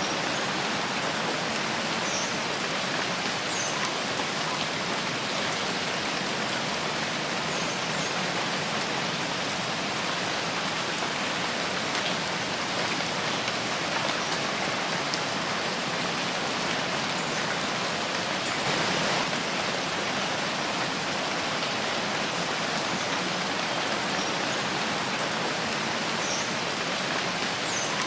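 Rain falling steadily in a forest: an even hiss of many drops, swelling slightly for a moment about two-thirds of the way through.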